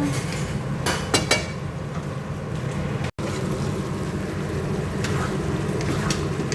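Stir-fry cooking in a pan on the stove: a steady low rumble, with a few sharp clicks of a utensil against the pan about a second in.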